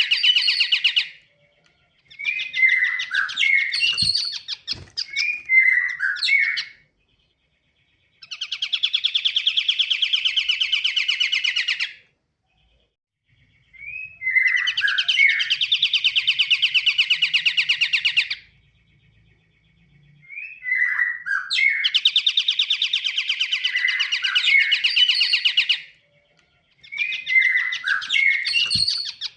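Pied triller (kapasan kemiri) singing in repeated bouts of a few seconds each. Each bout is a fast, dense trill mixed with short chirping notes, and short pauses separate the bouts.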